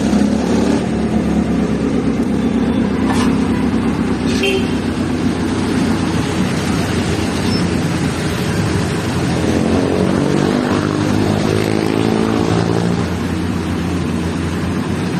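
Toyota 4A-GE twin-cam inline-four in a race car running steadily at low revs as the car moves off, its pitch wavering a little in the second half. The engine has just been rebuilt and is out on its first test run.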